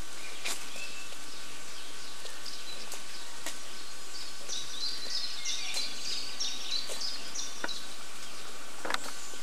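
Steady outdoor background hiss, with a small songbird singing a quick run of high chirping notes in the middle. There are a few faint clicks.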